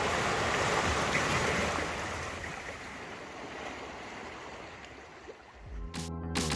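Sea waves washing with wind on the microphone, a steady rushing noise that fades out gradually; music starts near the end.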